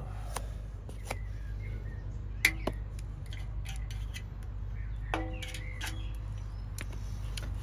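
Scattered sharp clicks and light knocks of tools and metal parts being handled, the loudest about two and a half seconds in, over a steady low hum.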